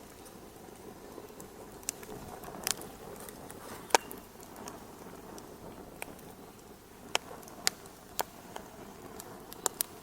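Wood fire in a fireplace crackling: a steady soft hiss with sharp pops scattered through, the loudest about four seconds in.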